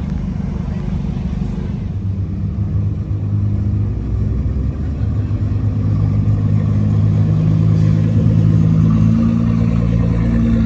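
Car engine running with a low, steady rumble, getting louder from about three seconds in and holding there near the end.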